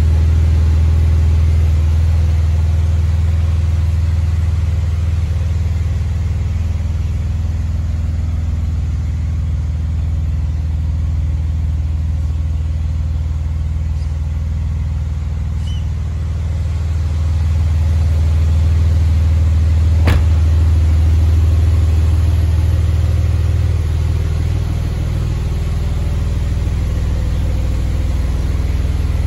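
Porsche 992 911's flat-six engine idling steadily with a low hum, growing louder for several seconds past the middle. A single sharp click comes about twenty seconds in.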